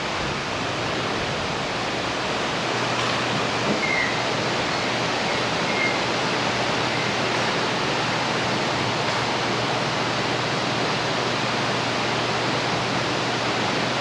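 Steady rush of water at a canal lock while the guillotine gate is lowered to seal off the flow, with a faint low hum underneath.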